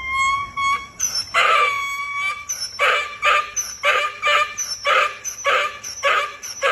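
A dog vocalising: one held howl-like note, then a run of short repeated barks or yelps, about two a second.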